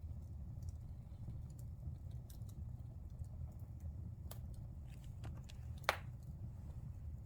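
Wood fire burning in a fireplace: a steady low rumble of the flames with scattered crackles and pops, one louder pop about six seconds in.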